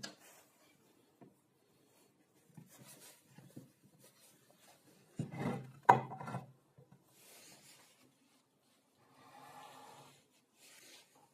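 Wood being handled and rubbed or scraped in short, separate strokes, with a louder clatter and a sharp knock about six seconds in.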